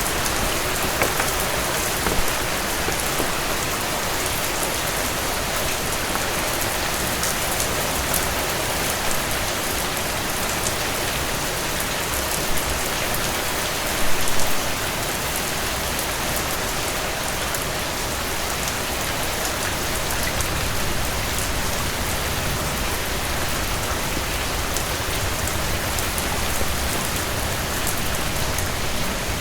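Heavy rain falling steadily on a cabin porch, a dense even hiss of drops, with a brief louder spatter about halfway through.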